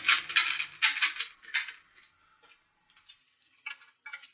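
Quick clicks and rattles of a pipe clamp being screwed tight, a run of them in the first couple of seconds, a short pause, then more clicking near the end.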